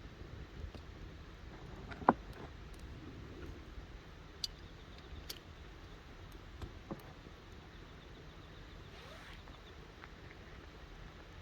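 Wood campfire crackling, with scattered sharp pops over a low steady hiss; one loud pop about two seconds in.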